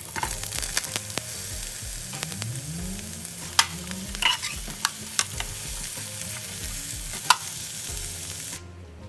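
Sliced onions and green bell pepper sizzling as they fry in oil in a pan, while a utensil stirs them and clicks against the pan several times. The sizzle cuts off suddenly shortly before the end.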